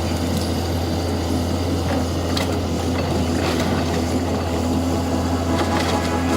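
Snowplow truck's engine running steadily with a low hum, a few faint knocks over it.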